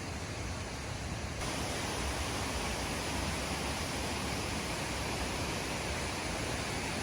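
Waterfall: a steady rush of falling water, which turns a little louder and brighter about a second and a half in.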